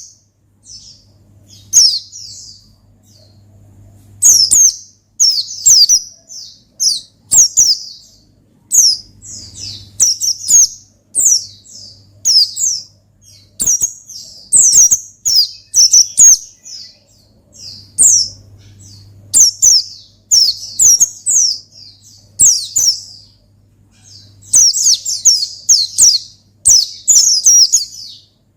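White-eye (pleci) singing a fast, high, chattering song in phrases of about a second each, with short gaps between them. This is the energetic 'gacor ngalas' singing that pleci keepers play to provoke and stimulate their birds.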